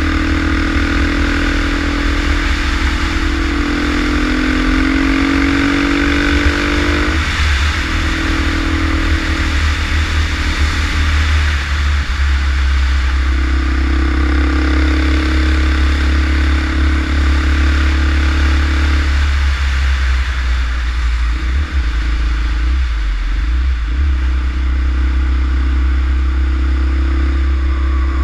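Husaberg 350 motorcycle engine under way on the road, its pitch climbing as it pulls and falling back sharply about seven seconds in and again around twenty seconds. A heavy wind rumble on the on-bike microphone runs underneath.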